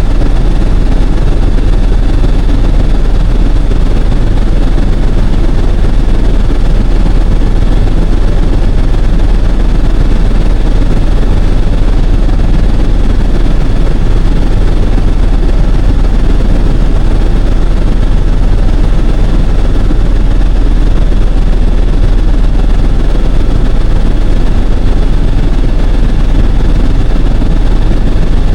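Helicopter in flight: the steady, loud, low rumble of its engine and rotor.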